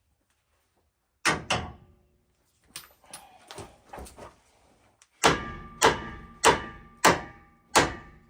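Hammer blows on the steel steering knuckle, ringing metallically, to break loose a stuck tie rod end. Two quick blows come about a second in, then some lighter metal clatter, then a steady run of blows about one every 0.6 seconds. The joint does not come free.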